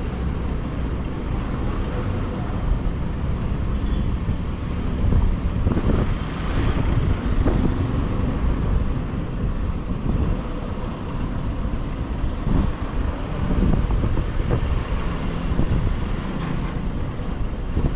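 Bajaj Pulsar motorcycle on the move: engine and road noise with gusty wind buffeting the microphone.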